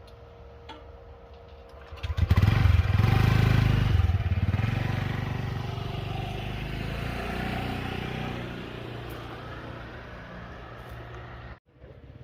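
A motorbike engine comes in loud about two seconds in and keeps running, slowly fading away. The sound cuts out abruptly near the end.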